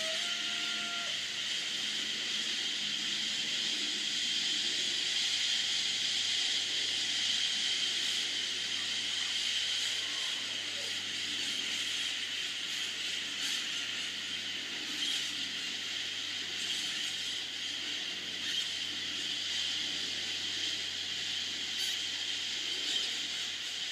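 A huge flock of parrots calling together, blending into a steady high hiss with a few individual calls standing out now and then.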